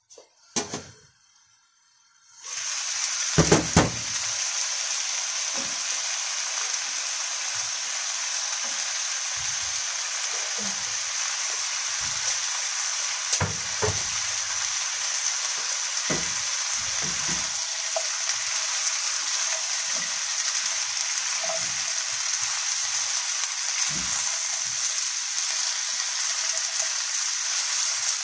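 Diced carrots and potatoes tipped from a wooden board into a hot frying pan, setting off a loud, steady sizzle about two and a half seconds in, with a few heavy thumps as they land. The sizzle goes on, with an occasional knock or scrape of a spatula stirring the pan.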